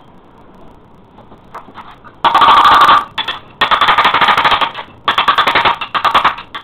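Electric rotary hammer running in three short bursts of rapid hammering, starting about two seconds in.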